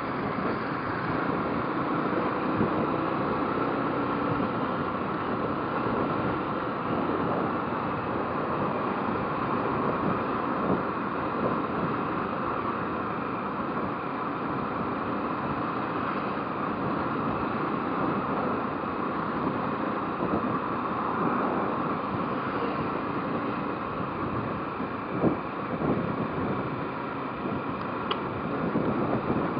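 Motorcycle riding at a steady pace: the engine running under a steady rush of wind over the microphone and road noise, with one short tick near the end.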